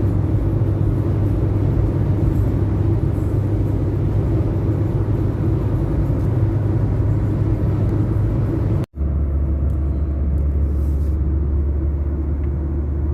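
Steady low rumble. It cuts out for an instant about nine seconds in, then goes on as a deeper, steadier hum.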